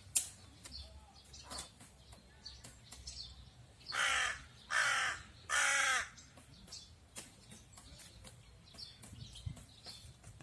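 A crow cawing three times in quick succession, about four seconds in, with faint chirps and scattered sharp ticks around it.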